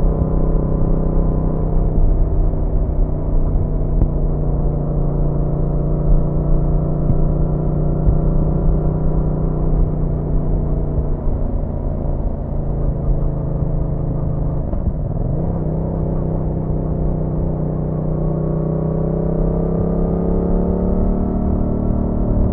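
Yamaha MT-07's parallel-twin engine running under way. Its pitch holds fairly steady, drops and wavers about two-thirds of the way through, then climbs steadily near the end as the bike accelerates.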